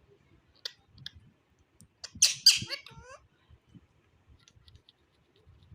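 Indian ringneck parakeet giving a loud, harsh squawk just over two seconds in, followed by a few short calls falling in pitch, with two brief sharp chirps about a second earlier.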